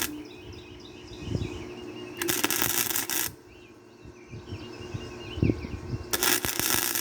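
Wire-feed welder arc crackling and hissing in short runs of about a second each as steel bedframe pieces are welded. One run comes a couple of seconds in and another starts near the end.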